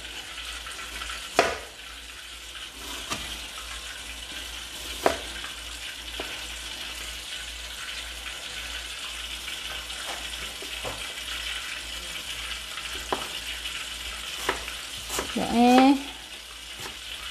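Steady sizzle of food frying in a wok, with scattered sharp knocks from cutting at the counter.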